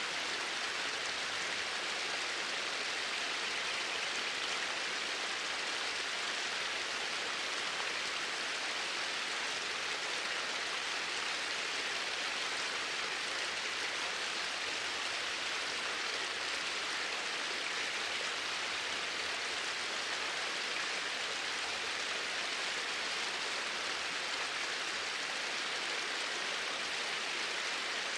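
Flowing water making a steady, even rush with no change.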